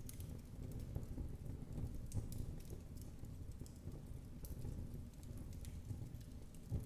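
Wood fire burning in a fireplace: a low steady rumble of flames with scattered sharp crackles and pops every second or so.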